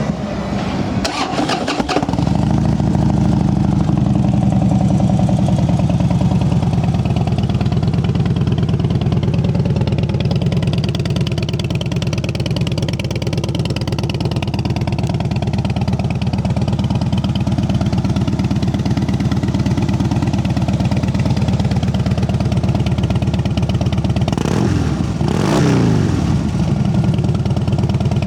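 A Harley-Davidson Dyna Fat Bob's V-twin with short Vance & Hines exhaust pipes is cranked and catches about two seconds in, then idles steadily. Near the end the throttle is blipped once, and the revs rise and fall back to idle.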